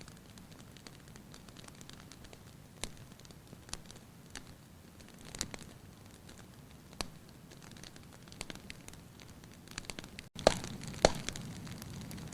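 Wood fire crackling in a fireplace: a low hiss with scattered sharp pops. Near the end the sound drops out for an instant, then comes back louder with two loud pops close together.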